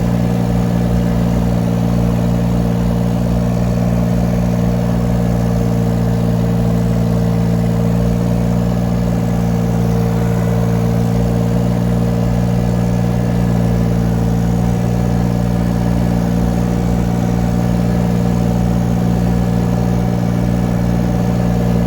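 Small diesel engine of a 2-ton mini excavator running at a steady speed.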